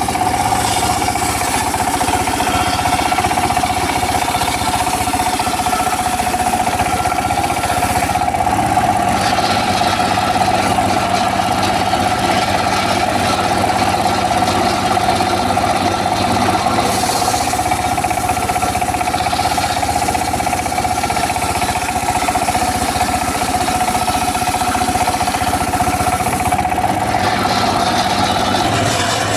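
Engine-driven circular saw running steadily, its spinning blade giving a constant high whine over the motor. The upper hiss of the sound dips briefly three times, about nine seconds apart.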